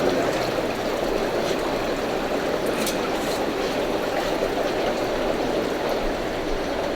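Water trickling and running steadily through aquarium tanks' filtration, an even rushing noise with a few faint ticks.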